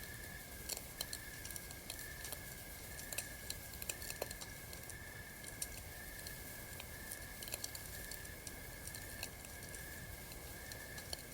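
Campfire crackling: irregular sharp pops and snaps from burning wood, behind a steady, evenly pulsing high trill of night insects.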